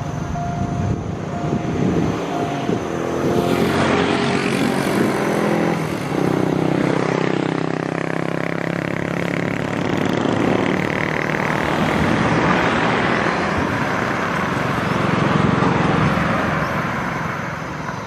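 A diesel-electric locomotive (GE-built GEA class) running past with its engine note loud through the first half. From about four seconds in, the steady rushing rumble of the carriages rolling by on the rails takes over, easing off near the end.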